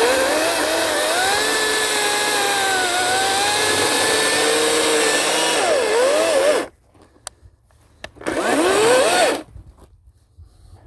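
Ryobi 40-volt 18-inch battery chainsaw cutting lengthwise through wood, its electric motor whine dipping and wavering under load for about six seconds before it stops. A second short run comes about eight seconds in, the whine rising as the chain spins up.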